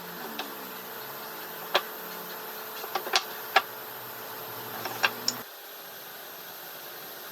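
A series of sharp knocks or taps, about eight in all, over a steady mechanical hum; the hum changes abruptly a little after five seconds in.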